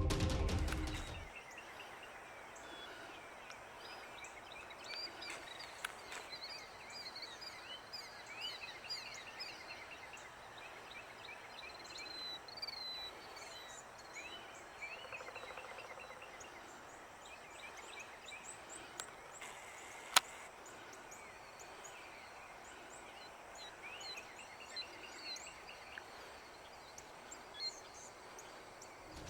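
Several songbirds chirping and trilling in woodland over a faint steady hiss, with many short repeated chirps. Music fades out in the first second or so, and there is a single sharp click about twenty seconds in.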